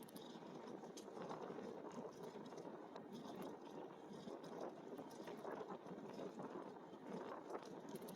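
Steady rolling noise of an e-bike being ridden, its tyres running on pavement, with faint light rattles or ticks now and then.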